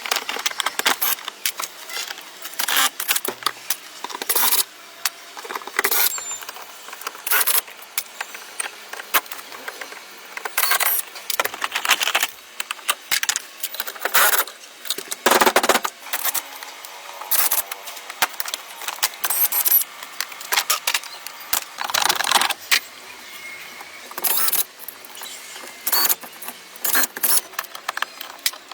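Irregular metallic clinks and knocks, like hand tools and small metal parts being handled and set down during work on a car, some ringing briefly.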